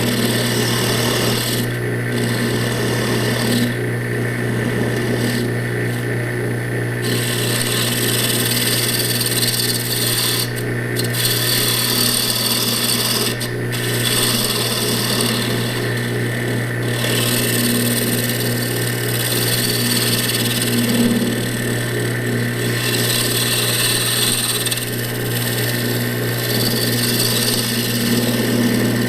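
Wood lathe running at about 1,000 rpm with a steady motor hum, while a carbide 90-degree diamond tool cuts the spinning bowl in passes: a scraping hiss that comes and goes every few seconds.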